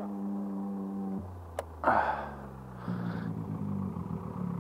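KTM 450 EXC single-cylinder four-stroke engine running with the bike lying on its side. Its pitch drops about a second in and rises again near the middle, then the engine cuts off abruptly at the end.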